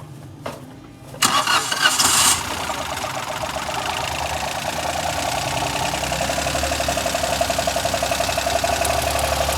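Suzuki Alto petrol engine cranked by the starter and catching about a second in, then settling into a steady idle just after its valve tappets have been adjusted.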